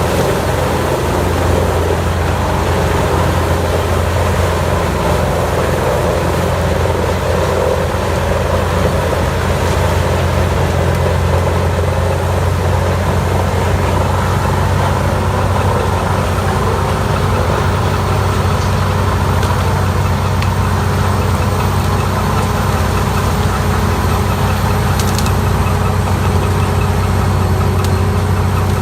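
Large land-clearing wood grinder running steadily, with a constant deep engine hum.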